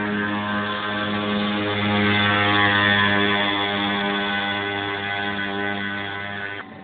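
Pocket bike's small two-stroke engine running at steady revs, a loud, even buzz that stops abruptly near the end.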